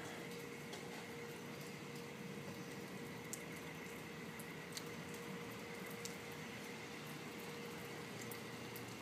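Faint steady background noise with a thin, steady hum and a few faint ticks.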